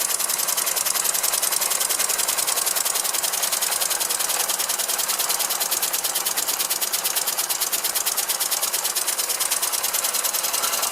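Small hand-built oscillating-cylinder model engine running on compressed air, with a fast, even beat of exhaust puffs and mechanical clatter.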